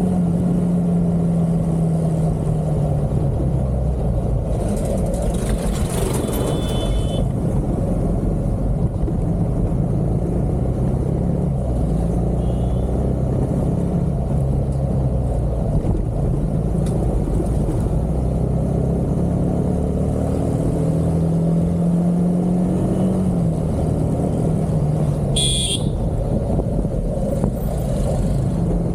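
Motor vehicle engine running steadily at speed over road and wind noise, its pitch dropping about three seconds in and rising then dropping again near the end, with two brief high-pitched sounds.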